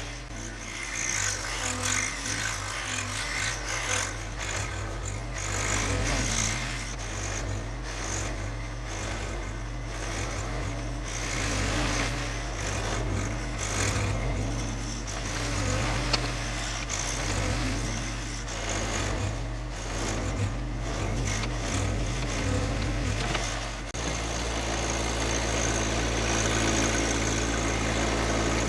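John Deere 2025R compact tractor's three-cylinder diesel engine running steadily while it works. About 24 seconds in, the sound settles into a more even, steady note.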